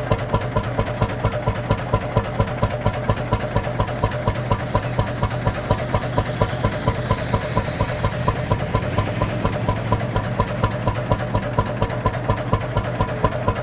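Lanz Bulldog's single-cylinder hot-bulb two-stroke engine idling with an even, regular beat, warm and running on its own after its bulb was preheated with a blowtorch.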